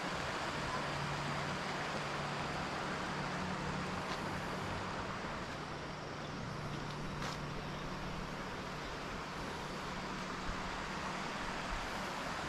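Steady rushing outdoor noise with a low, even hum beneath it, unchanging throughout.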